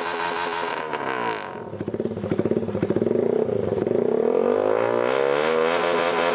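Suzuki Raider R150 Fi single-cylinder engine through an open full titanium exhaust with a carbon canister, revved high, then dropping off about a second in with a run of crackling pops, then revved back up and held high.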